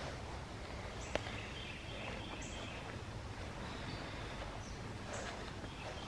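Outdoor ambience with a steady low background noise and faint, short bird chirps in a brief series near the middle, plus a single sharp click about a second in.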